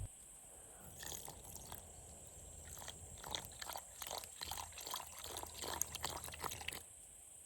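Irregular crunching and crackling clicks, starting about a second in and stopping shortly before the end, over a steady high hiss.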